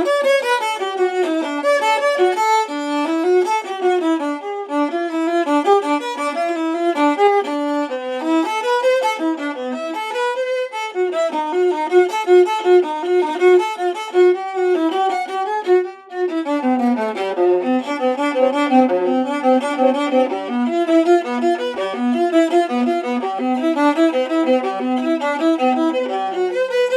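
A 16-inch antique Italian viola, labelled Giovanni Pistucci, Naples c1898, played with the bow in a solo melodic passage. There is a brief break about sixteen seconds in, after which the playing moves lower into the instrument's lower register.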